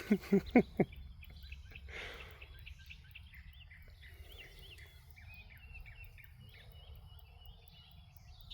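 Wild songbirds singing, with many overlapping short chirps and whistles. Four short loud pitched bursts come in the first second, with a breathy one about two seconds in.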